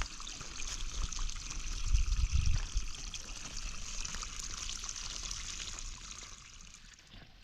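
Water trickling steadily, like a small stream or spring running, with a brief low rumble about two seconds in; the water sound fades down near the end.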